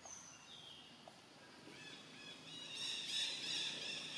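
Birds calling with high whistled notes: one note, then a lower one, then many notes together, growing much louder about three seconds in.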